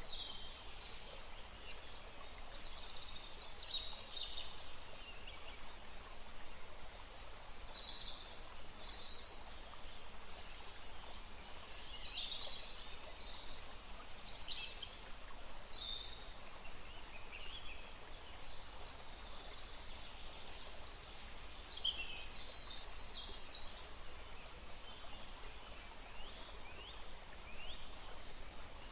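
Several wild birds calling and chirping, with many short high calls scattered throughout, over a steady even rush of background noise.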